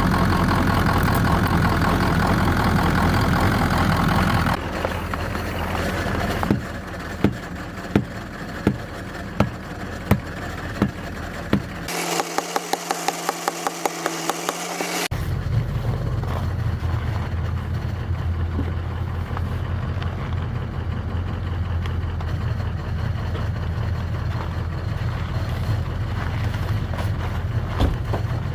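A vehicle engine running. It is loud for the first few seconds, then comes a series of evenly spaced knocks and a brief stretch of rapid ticking, then a steady low idle.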